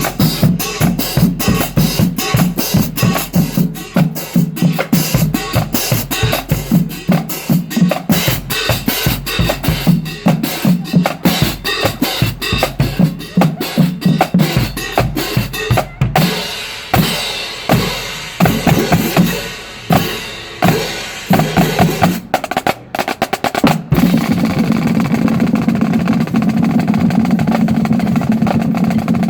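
Marching band drum line playing a cadence: rapid snare hits over pitched drums. About halfway through the hits turn sparser, and near the end it goes into a sustained roll.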